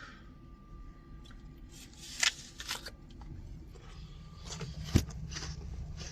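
Rustling and handling noises with a few short clicks, the sharpest about five seconds in, over a low steady rumble.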